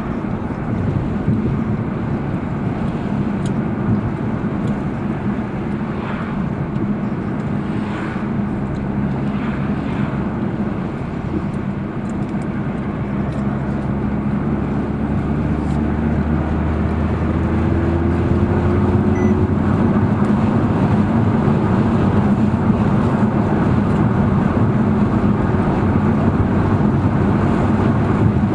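Audi R8 V10 Plus's 5.2-litre V10 engine running steadily, with road noise, as the car is driven. It gets somewhat louder and a low hum comes in about halfway through.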